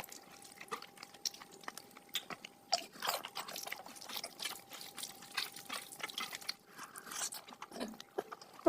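Close-miked eating sounds of spicy mutton fat curry with rice: wet chewing and lip smacks made up of many small irregular clicks, with a faint steady hum underneath.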